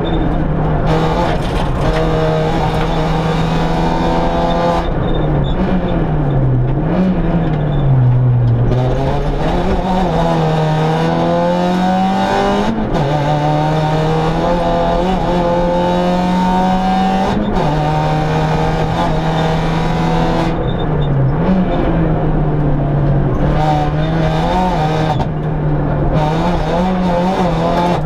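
Citroën C2 rally car's four-cylinder petrol engine at high revs, heard from inside the cockpit. It holds a steady pitch for long stretches, with several dips and climbs in pitch as the car slows and accelerates again.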